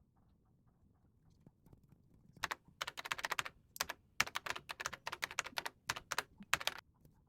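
Typing on a computer keyboard: bursts of rapid key clicks beginning about two and a half seconds in, with short pauses between the bursts.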